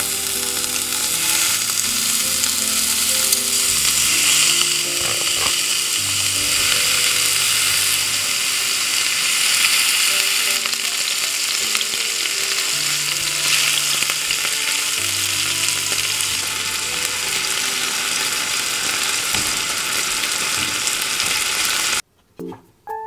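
Beef steak pieces, with sliced onions and mushrooms, frying in a hot pan on a gas burner: a loud, steady sizzle. It cuts off abruptly about a second before the end.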